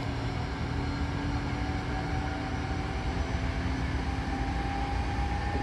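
Hankyu Kyoto Line electric train running, heard from inside the passenger car: a steady rumble of wheels and running gear with faint held tones above it.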